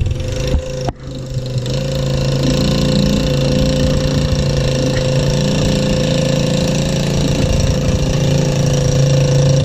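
An engine running steadily at idle with a constant, slightly rattly hum. There is a brief break about a second in.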